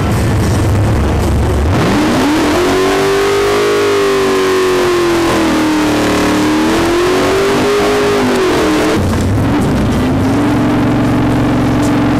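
Rock music for about the first two seconds, then a car engine at full throttle on a drag run, its pitch climbing steeply and holding high with a dip midway. The engine note breaks off after about nine seconds and the music comes back.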